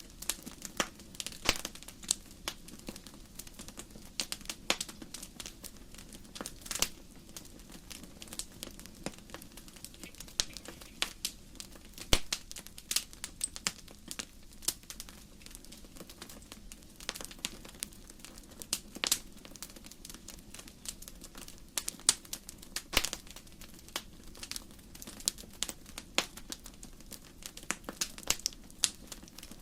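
Wood fire crackling: burning logs give irregular sharp pops and snaps, several a second and unevenly spaced, over a low steady rush of the flames.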